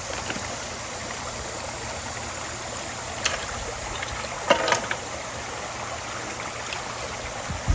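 Creek water running steadily through a culvert, a continuous rush. A short knock comes about three seconds in, and a few louder knocks follow a second or so later.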